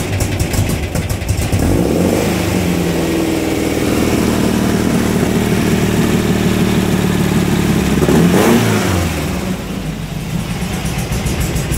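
2010 cc Volkswagen air-cooled flat-four stroker engine in a dune buggy running after its first cold start in months: its speed picks up about two seconds in and holds, a quick rev up and back down comes about eight seconds in, then it settles to a lower speed.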